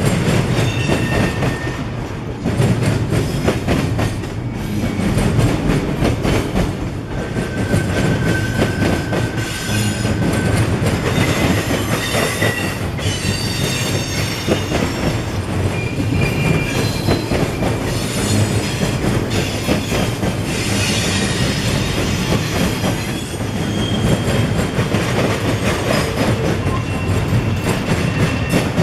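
Freight train cars rolling past, with steady rumbling and wheel clatter and a few brief high-pitched wheel squeals.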